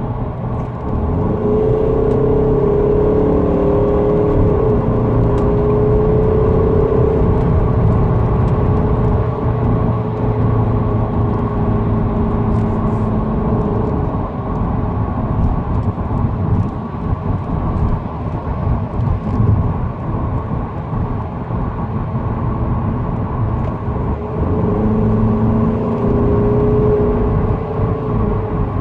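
Engine and road noise inside the cabin of a Mercedes-Benz SLK 250 as it accelerates. The engine note rises over the first few seconds, holds steadier through the middle, then rises again near the end as the automatic gearbox kicks down from fifth to fourth.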